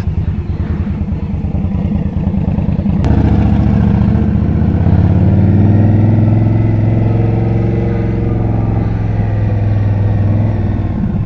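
Indian Scout's V-twin engine running low and even, then about three seconds in it picks up and pulls away, its note rising and then levelling off as the bike cruises.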